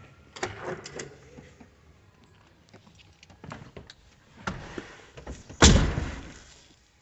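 1985 Chevrolet Suburban's door being opened and slammed shut a little past halfway with one heavy thud, after a few light clicks and rattles.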